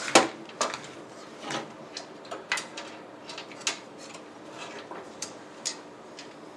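Irregular plastic clicks and knocks from RGB computer case fans and their cables being handled and fitted, the loudest knock about a quarter second in.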